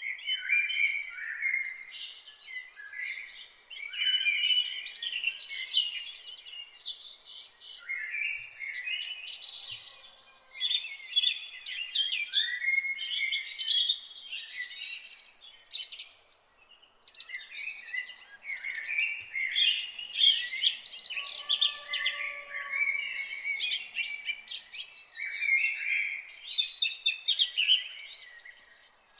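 A dawn chorus of several songbirds singing at once: dense, overlapping phrases of quick whistles and chirps with hardly a gap.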